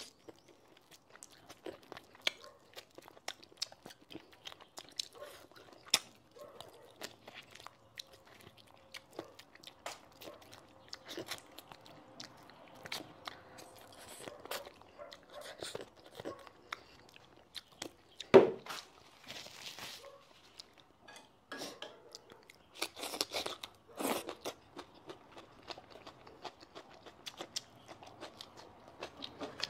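Close-miked eating: biting and chewing braised meat off the bone, with many small wet clicks and crunches. One loud thump comes about two-thirds of the way through.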